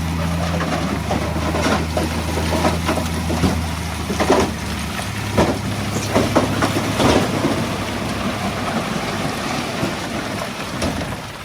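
Heavy equipment's diesel engine running steadily, with stones clattering and knocking several times through the middle seconds.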